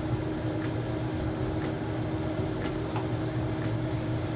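Steady low mechanical hum with a constant tone, with a few faint light clicks of a utensil against a pan of browning ground beef.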